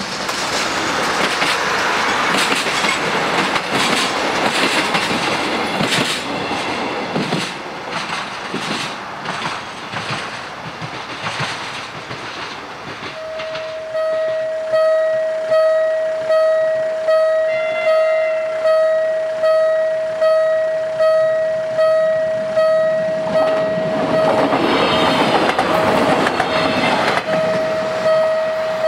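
A train rolls over the level crossing with wheel clatter. About halfway through, this gives way to the level-crossing warning bell ringing, a steady tone pulsing a little faster than once a second. Near the end a broad swell of noise from a passing train rises over the bell.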